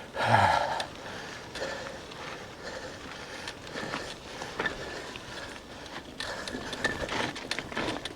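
Electric mountain bike with a 1 kW Bafang motor climbing a steep hill: a faint steady motor whine under scattered chain and gear clicks and rattles. A brief low falling sound comes right at the start.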